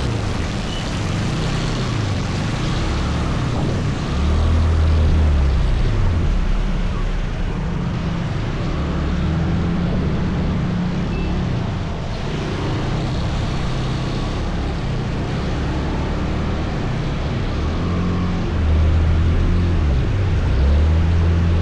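Motor scooter engine running while riding, its low hum rising and falling in pitch with the throttle, over a steady rushing noise of wind and road. It grows louder for a few seconds about four seconds in and again near the end.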